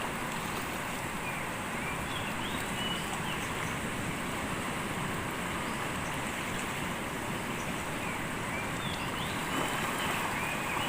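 Steady rushing noise of strong wind and water, with a few faint short chirps about two seconds in and again near the end.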